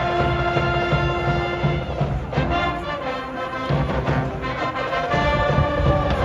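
School brass band playing a cheering tune, horns holding long notes over a steady drum beat.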